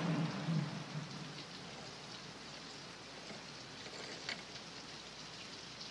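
Steady hiss of rain falling in a film's storm scene, with a low rumble dying away at the start and a faint tick about four seconds in.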